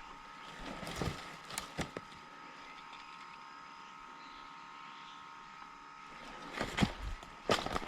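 Footsteps on the forest floor, a few steps about a second in, then quicker, heavier steps near the end as the walker speeds up, over a faint steady high hum.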